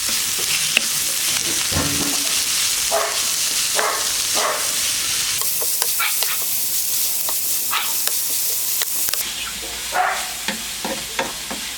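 Onion, green chilli, ginger and garlic sizzling in hot oil in a pan while being stirred, with a steady hiss and scattered clicks and scrapes of the spatula against the pan.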